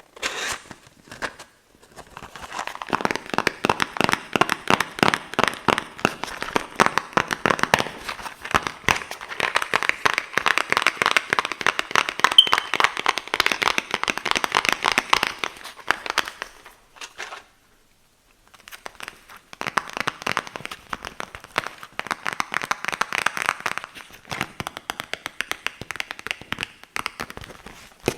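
Rapid tapping and scratching on boxes, a dense run of quick clicks and scrapes. It stops for about two seconds in the middle, then starts again.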